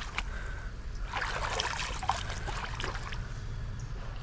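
Shallow stream water trickling, with small irregular splashes and ripples.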